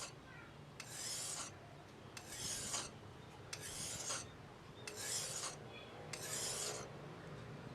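A shear blade scraping across a wet, coarse whetstone in repeated one-way sharpening strokes, five of them at an even pace of roughly one every second and a bit, each a short hiss-like rasp.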